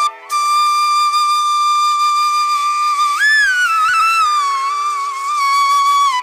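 Background music: a solo flute-like wind melody holding one long note, with a brief rise in pitch about three seconds in, over a faint steady drone.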